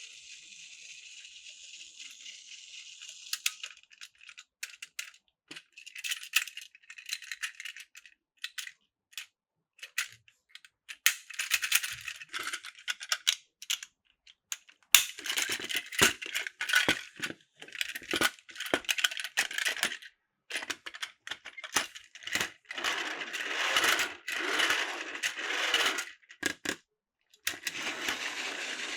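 Plastic toy pieces rattling and clicking, with many sharp clicks and irregular bursts of rattle.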